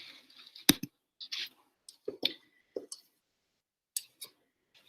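Ruler and pencil working on paper: a sharp click about two-thirds of a second in, then a series of short scratches and clicks as straight lines are drawn along the ruler.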